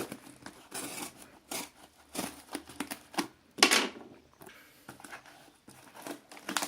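Parcel packaging being handled and opened: irregular crinkling, rustling and tearing, with the loudest tear about three and a half seconds in.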